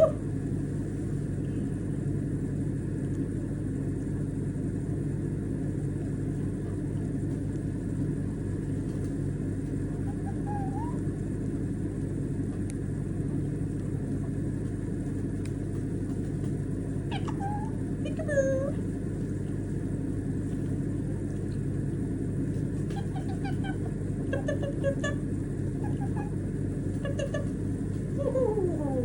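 White-bellied caique giving a few short, scattered squeaks and chirps, with a falling call near the end, over a steady low rumble.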